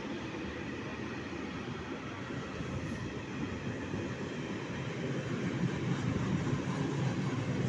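A train running past on the line, a steady rumble that grows a little louder about five seconds in.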